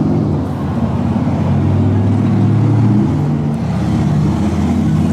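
Motor vehicle engine running steadily: a loud, continuous low rumble.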